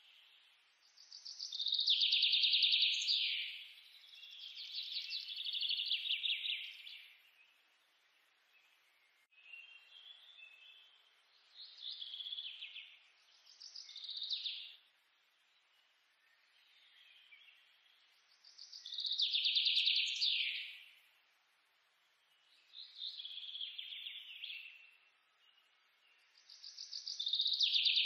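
A bird singing: short, high, rapidly trilled song phrases of a second or two, repeated every few seconds.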